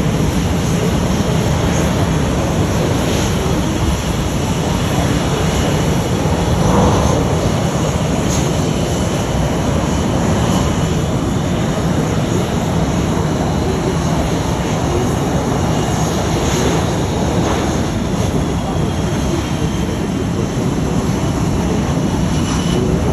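Jet aircraft engines running with a steady, even noise that holds level throughout.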